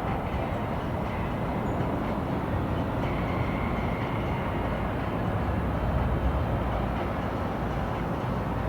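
Steady low rumble of vehicles moving through a city street, with no distinct events.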